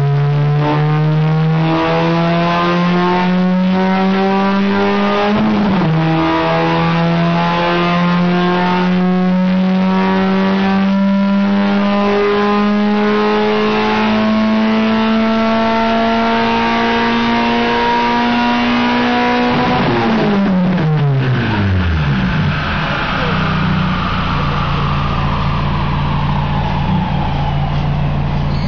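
Car engine held at full throttle on a rolling-road dynamometer during a power run, its pitch climbing steadily with a brief dip about five seconds in. About twenty seconds in the throttle is released and the pitch drops fast; the engine then idles while a faint high whine falls away as the rollers wind down.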